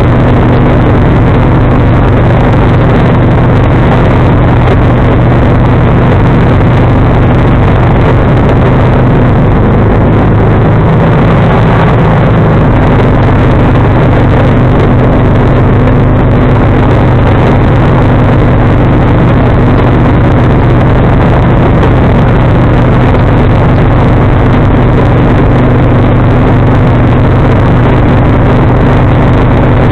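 John Deere 445 garden tractor's V-twin engine running steadily and loudly while powering a 47-inch snowblower. Its note wavers and drops briefly about ten seconds in, then steadies again.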